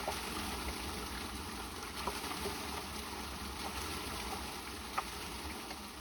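Steady hiss of water, with a few faint ticks scattered through it.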